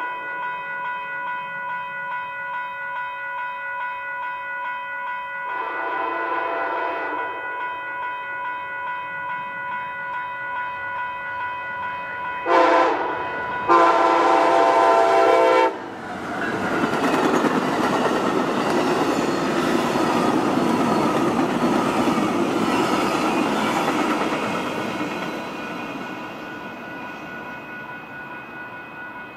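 Amtrak locomotive horn sounding the grade-crossing signal: the end of a long blast, a long blast about six seconds in, then a short blast and a final long blast, over railroad crossing bells ringing steadily. The train then passes at speed, its wheels rumbling and clacking on the rails, and the sound fades near the end.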